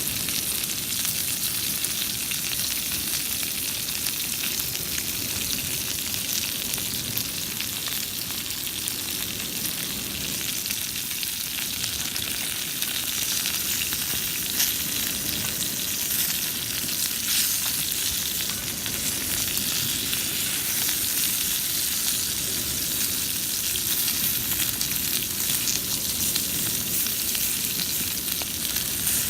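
Chicken wings frying in oil in a cast-iron pan over wood embers: a steady sizzle, with a few louder pops.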